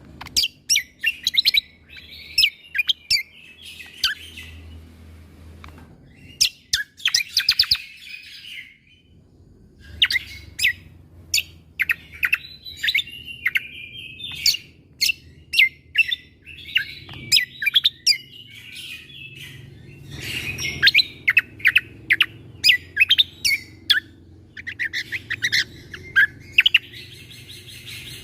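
Cucak kombo (kecial kombok) songbird singing in rapid bursts of sharp, staccato 'shot' notes mixed with chattering trills, with a pause of about a second and a half about nine seconds in. A faint low hum runs underneath.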